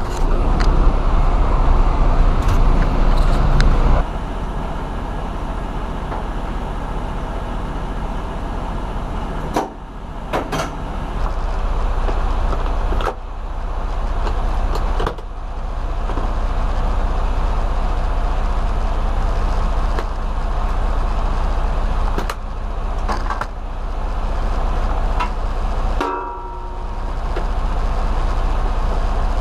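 Semi-truck's diesel engine running, heard from inside the cab, as the truck is driven. The engine sound drops and builds back up several times, with a few sharp clicks and a brief squeal near the end.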